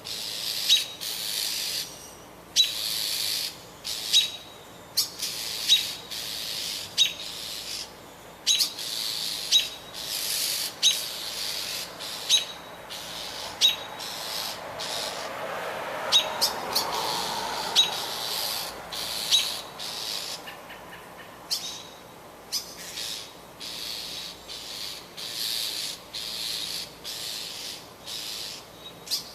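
A bird screaming: short, harsh calls repeated over and over, about one a second. A low rushing sound swells and fades around the middle.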